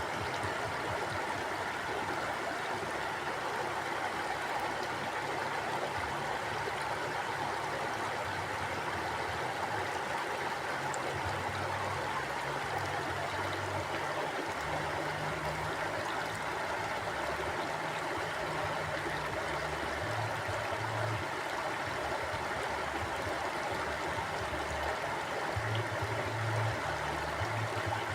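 Mountain stream flowing over rocks: a steady rush of water with a low, shifting rumble.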